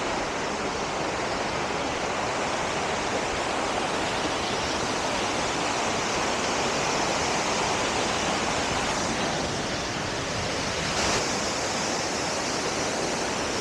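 Waterfall: a steady, even rush of falling water, swelling slightly for a moment near the end.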